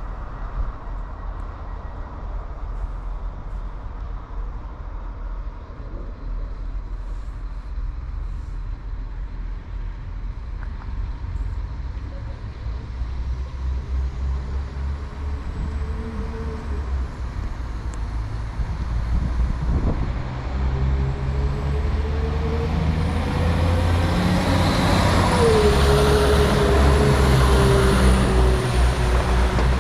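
A train approaching: a low engine rumble with a pitched drone and a high whine, growing steadily louder through the second half.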